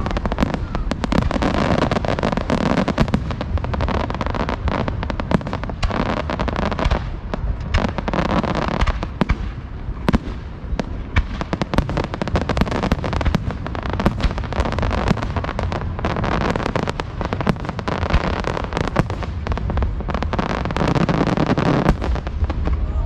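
Close-range aerial fireworks display: a dense, continuous barrage of shell bursts, sharp cracks and crackling, with deep booms underneath.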